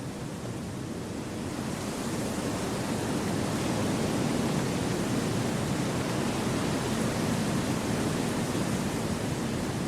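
Wind blowing through forest trees: a steady, even rush that swells over the first few seconds and then holds.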